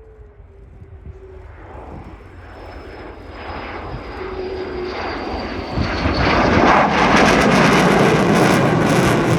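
Boeing F-15QA's twin jet engines roaring as the fighter approaches, the noise building steadily over about six seconds to a loud, sustained roar, with a faint high whine falling slowly in pitch.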